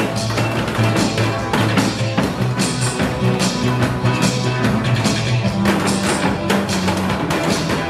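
Janggu (Korean hourglass drum) struck in a steady rhythm over accompanying music with held bass and melody notes.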